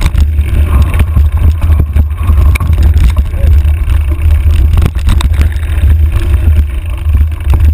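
Wind buffeting a handlebar-mounted camera's microphone as a bike is ridden over a rough trail: a constant loud rumble with frequent knocks and rattles from the bike jolting over the ground.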